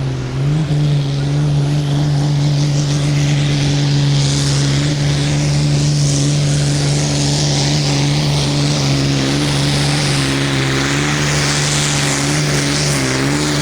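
Light pro field pulling tractor's diesel engine running at full throttle as it pulls the weight sled down the track. Its pitch climbs about half a second in, holds steady, and wavers near the end.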